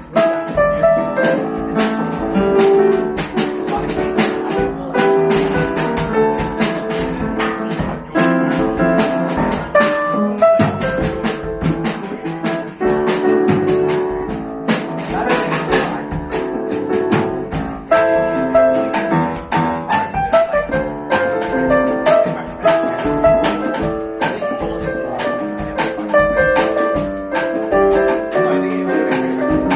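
Live jazz band playing, with piano over a drum kit keeping a steady swing on the cymbals.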